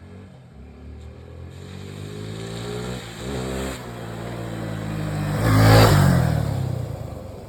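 Bajaj Dominar motorcycle engine riding off-road, climbing in revs as it approaches with a brief rev about three seconds in. It is loudest as it passes close about six seconds in, then drops in pitch and fades away.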